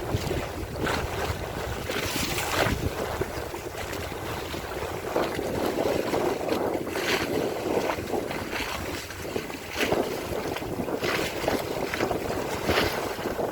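Sailboat under way in a freshening breeze: wind buffeting the microphone and water rushing along the hull, with a sharper splash or gust about every second.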